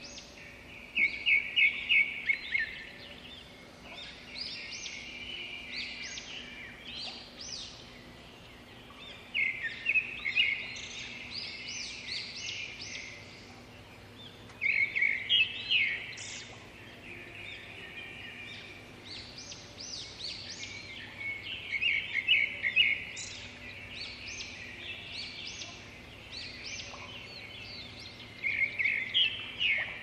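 Songbird chirping in loud bursts of quick high notes, each burst lasting a second or two and returning every five to seven seconds, with softer scattered chirps in between.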